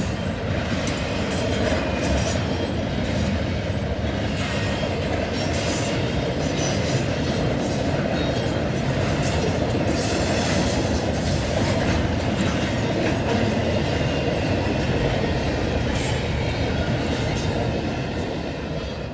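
Norfolk Southern freight train 283 rolling past: steady rumble and clatter of wheels on rail, with scattered high wheel squeals. It fades away near the end.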